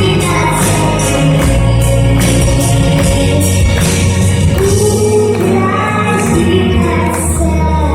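A girl singing over backing music: held sung notes over a steady bass line and a regular beat.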